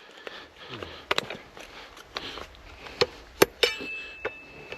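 A series of sharp knocks and clinks, about seven spread irregularly, as a frozen fitting or part is worked at by hand, with a thin steady high tone in the last second.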